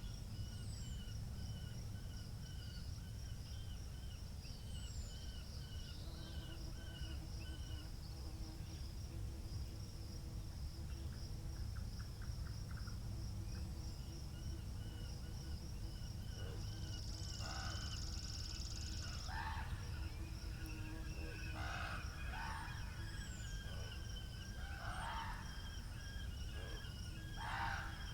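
Steady low wind rumble, with birds chirping and calling in the background; in the last third a run of short bird calls every second or two.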